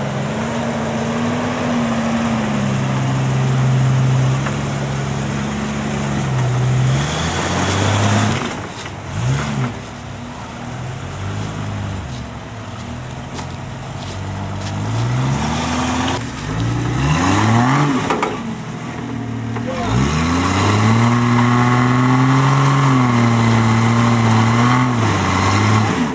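Jeep Cherokee XJ engine revving under load as it crawls over rocks in mud. The revs hold fairly steady for stretches near the start and end, with quick rises and falls of the throttle in the middle and a few short knocks partway through.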